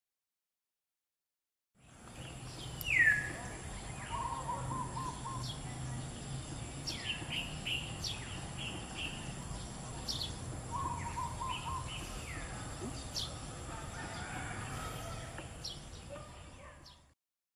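Wild birds calling: several sharp calls that sweep steeply down in pitch, the loudest soon after the sound begins, and short runs of lower stuttering notes, over a steady high hiss and a low hum.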